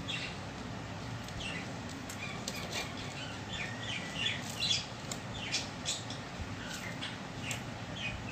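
Small birds chirping in short, scattered calls over a steady low hum, with light scraping of fingers mixing rice on a steel plate.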